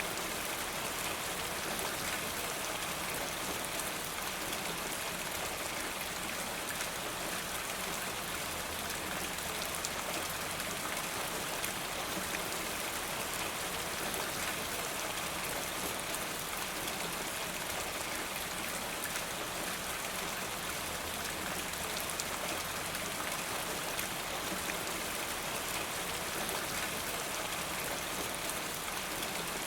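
Steady rain with a dense patter of drops, and water running and dripping off a rain gutter.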